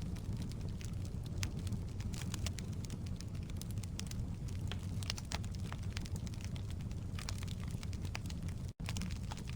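Wood fire burning in a fireplace: logs crackling with many irregular sharp pops over a steady low rumble of the flames. The sound cuts out completely for an instant near the end.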